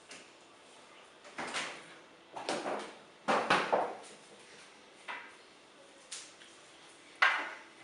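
A string of short kitchen handling sounds, knocks and scrapes of dishes and containers being moved about, about six in all, the loudest about three and a half and seven seconds in.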